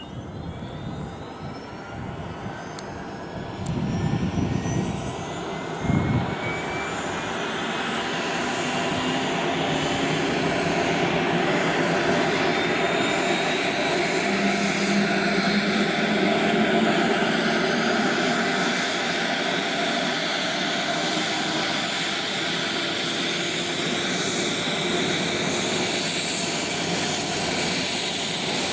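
EC-145 helicopter's turbine engines spooling up: a whine that climbs steadily in pitch over the first several seconds, building into a loud, steady turbine and rotor noise. Two low thumps come about four and six seconds in.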